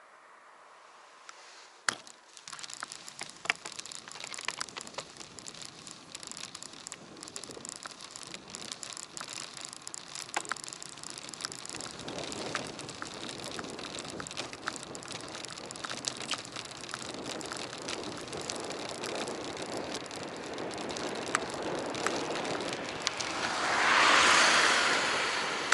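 Bicycle ride heard from an action camera: a sharp click about two seconds in, then steady tyre and wind rush with constant small rattles and clicks from the bike and camera mount, slowly growing louder. Near the end a louder rush of noise swells and fades.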